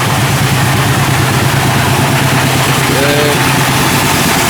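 Meatball grinding machine's motor running steadily at a constant speed, a low drone under a wide, even noise.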